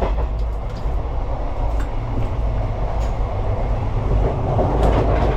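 Steady low rumble and rattle of an Indian Railways ICF passenger coach running on the track, heard from inside the coach, with a few light clicks.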